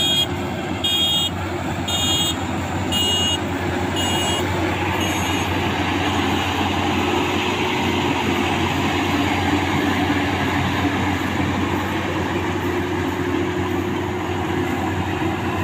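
Maxxi Bimo 102L combine harvester running steadily at full load, its engine and threshing machinery making a dense, continuous din. For about the first five seconds a high electronic beep sounds about once a second, then stops.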